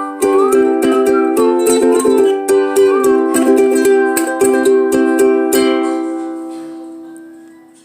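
Ukulele playing the closing bars of an Irish folk tune, strummed and picked chords, ending on a final chord left to ring and fade away over the last couple of seconds.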